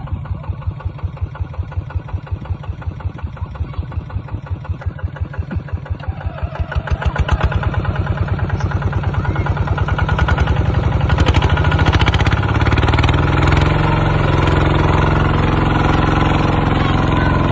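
Kubota RT140 walking tractor's single-cylinder diesel engine idling with a slow, even chugging beat, then opened up about seven seconds in and running louder and faster.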